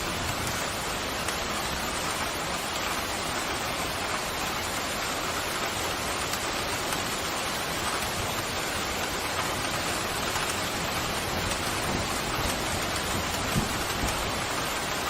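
Steady, heavy rain falling, an even hiss of water, with a brief low thump near the end.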